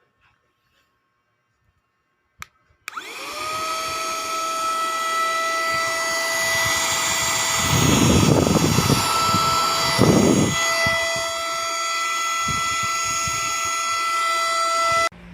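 Handheld cordless mini vacuum cleaner switched on about three seconds in. Its motor spins up with a rising whine, then runs with a steady high whine over rushing air. The rushing gets louder twice, around eight and ten seconds in, and the sound cuts off suddenly near the end.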